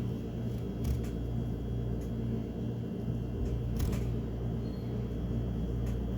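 A steady low hum, with two brief clicks about one second and about four seconds in.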